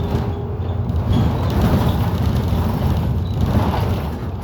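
London bus engine and running gear heard from on board, running under load: louder from about a second in, easing off near the end.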